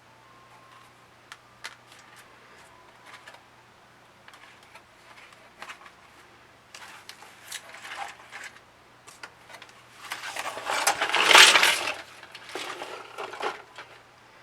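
Small hard plastic pieces being handled: scattered light clicks and taps, then a louder rattling clatter about ten seconds in that lasts a couple of seconds.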